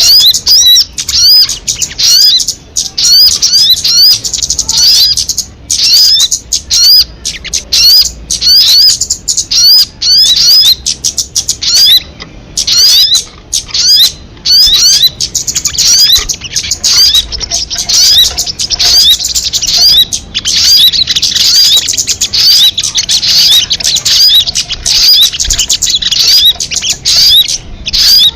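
Sogon bird singing: fast series of short, high, hooked chirps repeated several times a second in long phrases with brief pauses, loud and close.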